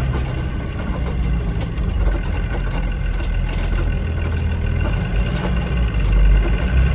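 School bus engine idling steadily with a low rumble.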